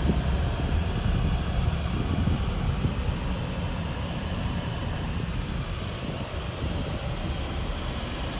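Steady noise inside a moving car: engine and tyre rumble heard from the cabin as the car drives slowly along.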